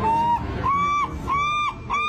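An animal giving repeated short calls, about four in two seconds, each a steady pitch lasting under half a second.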